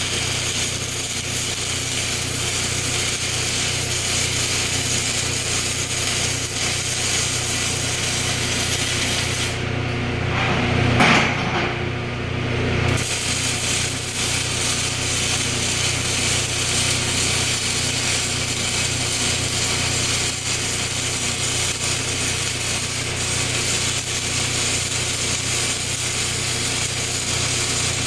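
Electric arc welding a steel plate to steel tubing: a steady hiss over a low hum. It breaks off about ten seconds in and starts again about three seconds later.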